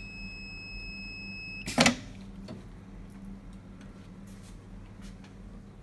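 Systec DE45 benchtop autoclave's control panel giving a steady high beep, which stops about two seconds in with a loud clunk as the automatic door unlatches and opens. A low steady hum runs underneath.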